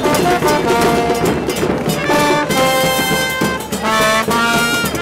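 Brass section of a carnival murga band playing a tune in held, changing notes, with drum hits underneath.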